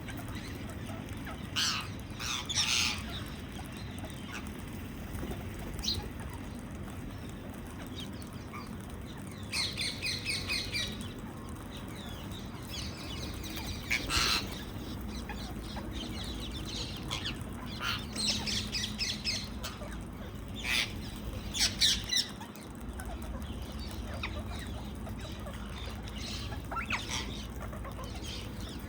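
Indian ringneck parakeets (rose-ringed parakeets) squawking in short bursts of shrill, repeated calls every few seconds, over a steady low background noise.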